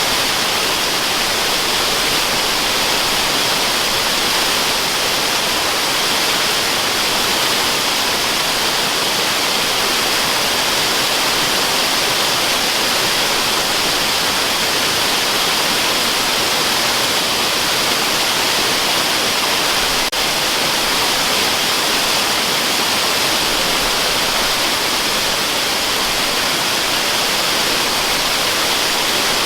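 Steady rush of a waterfall, a dense even hiss of falling water weighted toward the treble, with one faint click about twenty seconds in.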